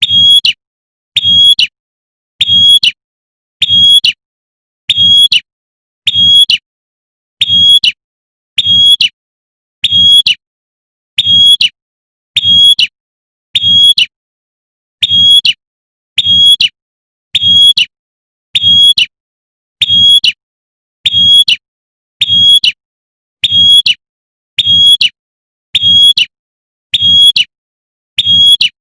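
Female prenjak (prinia) giving its sharp 'tembakan' call over and over, one short call about every 1.2 seconds, each with a dull low thud beneath it and silence in between. It is a female calling for a male, used as a lure call.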